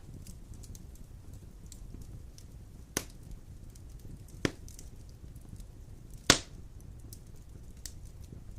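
Large logs burning in a stone fireplace: a low steady rumble of flame with faint crackling and three sharp pops about a second and a half apart, the third the loudest.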